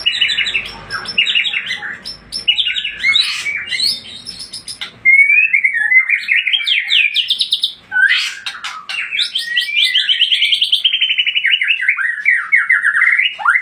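White-rumped shama (murai batu, Aceh Tangse type) singing loudly and continuously. The song is a varied run of whistled, sliding phrases and fast rattling trills, broken by a short pause about five seconds in.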